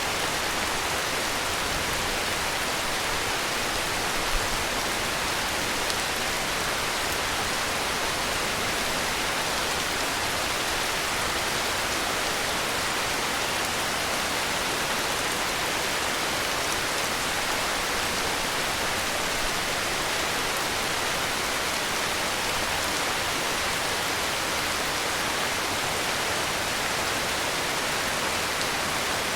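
Heavy rain falling steadily: a dense, even hiss of countless drops with no let-up.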